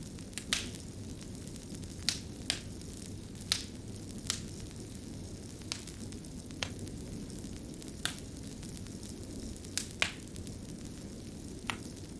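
Wood fire burning with a steady low rumble. Sharp crackles and pops come at irregular moments, about a dozen in all.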